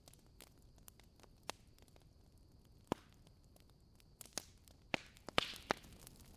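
Wood fire crackling in a fireplace: scattered sharp pops from the burning logs, sparse at first and busier near the end, with a brief hiss about five seconds in.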